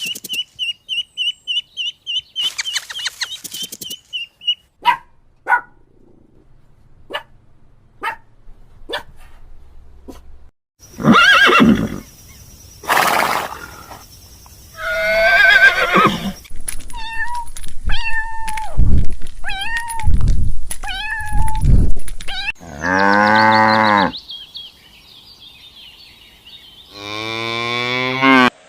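A run of different animal calls, one clip after another: rapid high chirping at first, then scattered clicks, then louder calls and long pitched calls toward the end.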